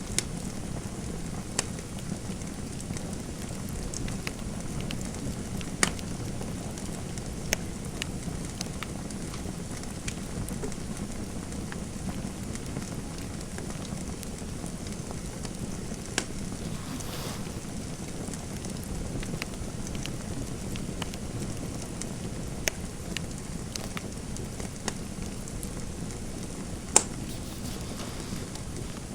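Fireplace fire crackling: a steady hiss of burning with scattered sharp pops every few seconds, the loudest one near the end.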